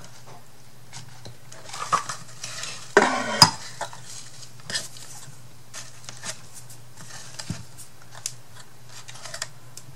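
Scattered small clicks and knocks of crafting work with a hot glue gun on a wooden box, with a louder clatter about three seconds in. A faint steady low hum runs underneath.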